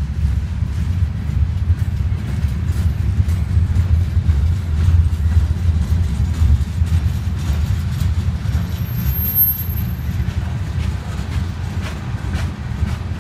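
Freight train cars (open-top gondolas and tank cars) rolling past: a steady low rumble of steel wheels on the rails, with frequent clicks and clanks that come thicker in the second half.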